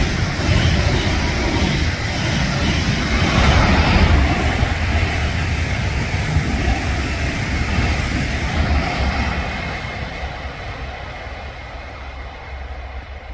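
Train passing at speed, its wheels rumbling on the rails. The noise fades steadily over the last few seconds as the train moves away.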